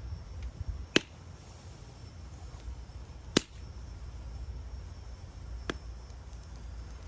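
Wood fire burning with three sharp crackling pops, about a second in, a couple of seconds later and once more near the end, over a steady low rumble.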